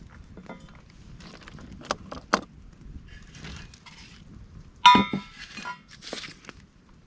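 Camping gear being handled: two light knocks, then a loud metallic clink with a short ring just before the five-second mark, followed by softer rustling.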